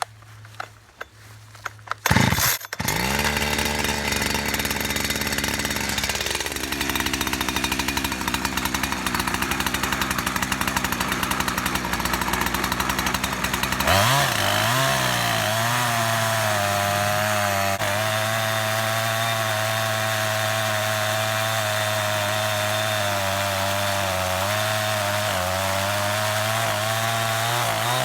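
Holzfforma G372XP two-stroke chainsaw (a Husqvarna 372XP clone) starting about two seconds in and idling. About halfway through it revs up and holds at full speed with a slightly wavering pitch, as it rips a log lengthwise in an Alaskan chainsaw mill with an 18-inch bar and a standard crosscut chain.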